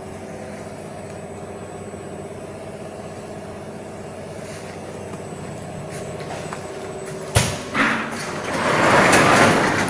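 Screen-printing machine running with a steady motor hum. About seven seconds in there is a sharp clack, then a loud rushing noise near the end.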